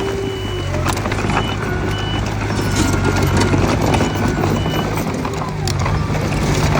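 Mitsubishi BD2F bulldozer's diesel engine running steadily, its steel tracks clanking and rattling, with a few short high beeps from a reversing alarm.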